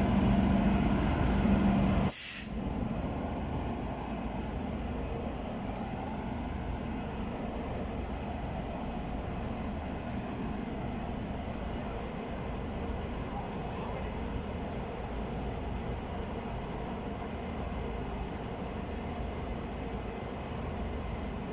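Diesel train engine running with a steady low hum. About two seconds in there is a short, sharp hiss of air brakes venting, and the engine sound then drops to a quieter steady run.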